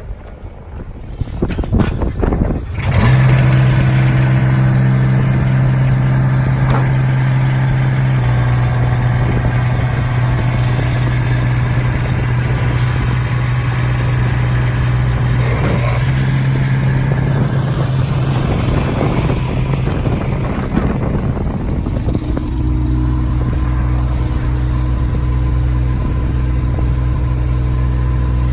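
Kubota three-cylinder diesel pony motor on a bucket truck cranking and catching about two and a half seconds in, then running steadily. Its note shifts about 8 and 22 seconds in, with a deeper tone from about 22 seconds.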